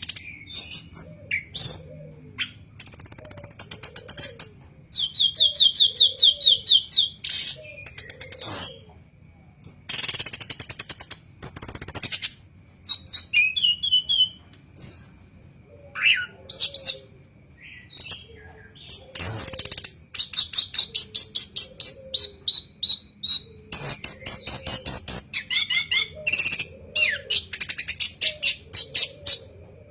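Anis kembang (chestnut-capped thrush) singing loudly and almost without pause: harsh, high bursts and fast rattling trills mixed with sharp clicks.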